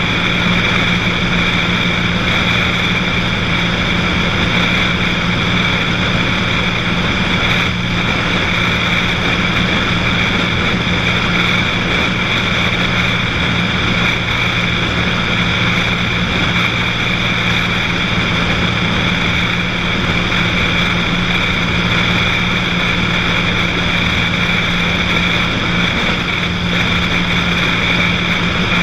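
Cessna 182's piston engine and propeller droning steadily in flight, holding one even pitch.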